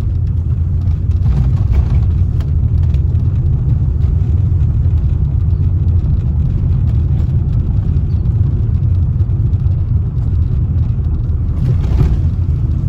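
Car interior road noise while driving slowly on a rough, worn road: a steady low rumble of engine and tyres, with a couple of brief jolts from bumps.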